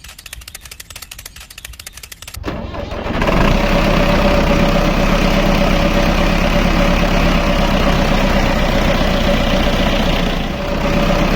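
A fast, even ticking, then about two and a half seconds in a tractor engine starts and runs steadily with a constant hum.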